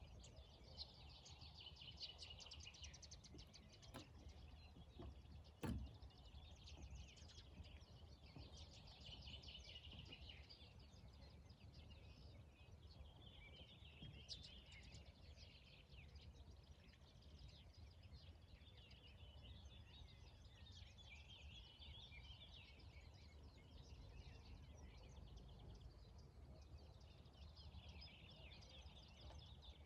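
Several songbirds singing and chirping in overlapping trills over a faint, low, steady rumble of outdoor background noise. A single sharp knock stands out about six seconds in.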